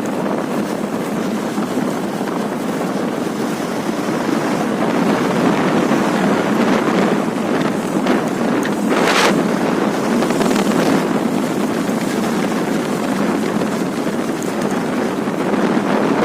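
Wind rushing over a motorcycle rider's microphone while riding, a steady loud noise, with a brief sharper hiss about nine seconds in.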